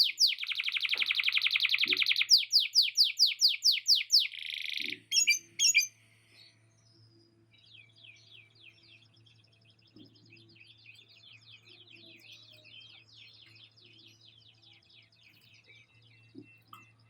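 Male canary singing a loud, fast song of rapidly repeated sweeping notes and a dense rolled trill, ending about five seconds in with two sharp notes. After that only soft, faint twittering goes on.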